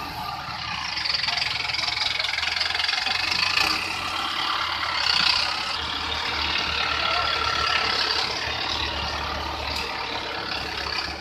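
Tractor engine running steadily with a low rumble and a noisy mechanical clatter.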